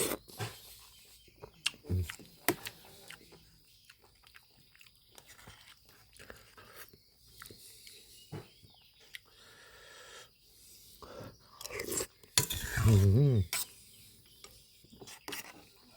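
Close-up eating sounds of someone chewing and biting food, broken by sharp clicks of cutlery. About twelve and a half seconds in there is a loud, short voice-like sound with a wavering pitch.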